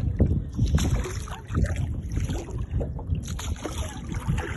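Small rowing boat being rowed: oars dipping and pulling through the water, with splashes. Wind rumbles on the microphone.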